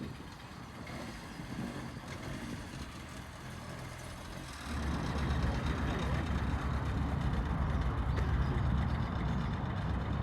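Car engines running as cars drive away. About halfway through, one engine becomes much louder and stays loud, as a car pulls close by.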